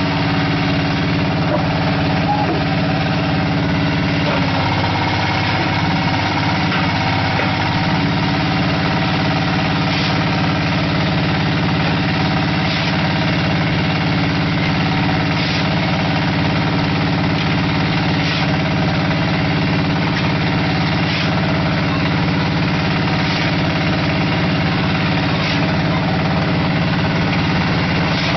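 Small diesel engine of a QT4-30 hydraulic concrete brick machine running steadily, with a sharp knock every two to three seconds from about ten seconds in.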